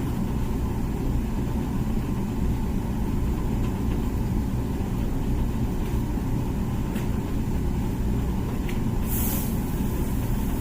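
Comfee dishwasher running its wash cycle: a steady low hum of the pump and water inside the tub, with a few faint clicks and a brief hiss near the end.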